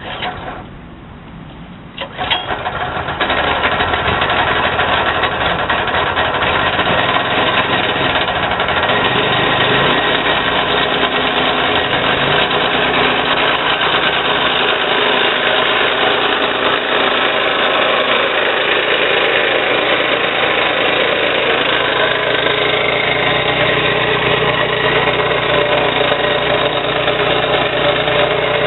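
Kohler 6.5 hp single-cylinder engine on a turf cutter (sod cutter) starting about two to three seconds in, then running loud and steady.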